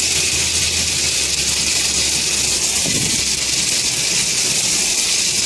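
Travel-trailer shower head spraying water in a steady hiss, flushing chlorine-sanitized water through the line; a low hum underneath drops away about a second and a half in.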